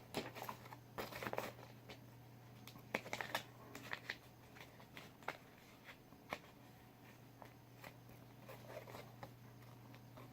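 Faint handling noises: small plastic clicks and paper rustles as a cover sleeve is slid into a plastic Blu-ray case, over a steady low hum.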